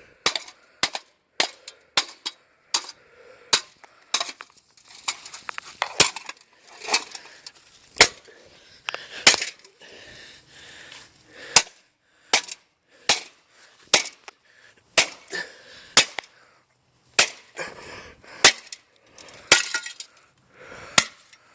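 An old ceiling fan being smashed: a long series of sharp, irregular impacts, about one or two a second, as its metal and plastic parts crack and clatter.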